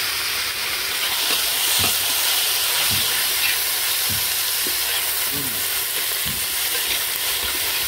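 Soaked toor dal frying in hot oil with its tempering in a wok, a steady sizzle as it is stirred through with a steel ladle, no water added yet. A soft low stroke of the ladle comes about once a second.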